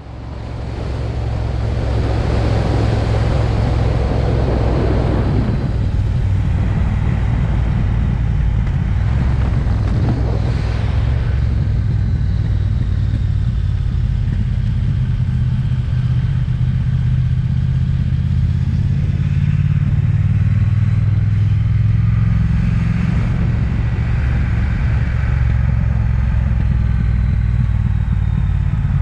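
Triumph Speed Twin's parallel-twin engine running steadily while riding, heard from an on-board camera. Wind noise rushes over it, strongest a few seconds in.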